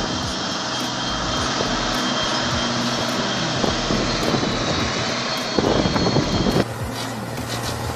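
Heavy diesel engine running steadily, with a burst of knocks and clatter about six seconds in. The sound then switches abruptly to a quieter, lower engine drone.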